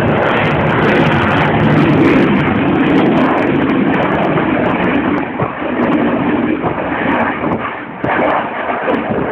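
Eurofighter Typhoon's twin EJ200 turbofans running loud overhead, a dense steady jet noise that eases a little twice in the second half.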